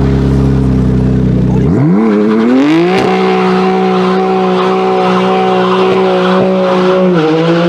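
Car engine running at a steady low speed, then revved up about two seconds in and held at high revs for several seconds, dipping slightly and rising again near the end.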